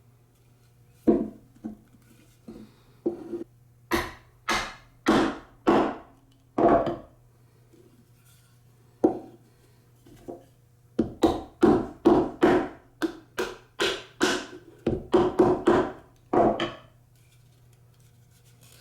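Wood being knocked: a string of sharp, hollow knocks, a few scattered and then two runs of quick strikes about half a second apart, the second run starting about 11 s in.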